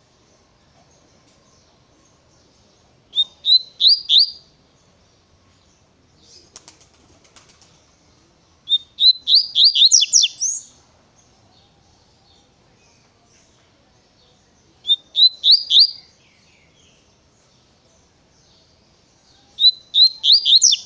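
Double-collared seedeater (coleiro) singing the tui-tui song type: four short phrases of quick, rising whistled notes, several seconds apart, the second phrase the longest.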